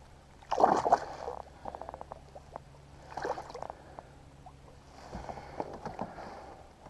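Water splashing and sloshing beside a kayak as a hooked smallmouth bass is brought in, with a sharp splash about half a second in, scattered small clicks, and further splashes later.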